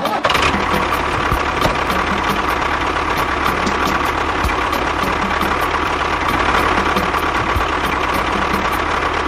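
A small motor running steadily with a whine, starting abruptly and cutting off near the end.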